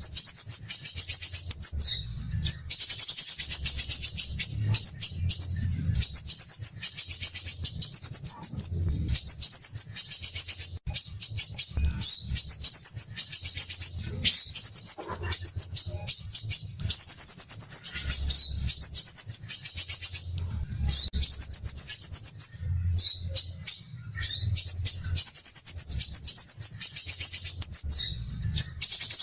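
Crimson sunbird (sepah raja) singing: loud, high, dense and rapid scratchy trills, the 'besetan kasar rapat' song prized for teaching to other songbirds. The trills come in phrases of one to two seconds with short breaks between them, over and over.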